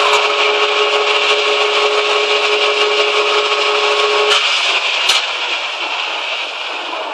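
Manual metal lathe running with a steady hum and hiss. About four seconds in its steady tones stop with a click, and the remaining noise slowly dies away, as a spindle does when it coasts down.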